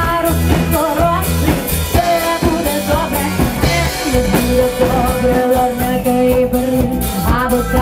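Live rock band playing, with drums, electric guitar and bass and a singing voice; a long note is held through the second half.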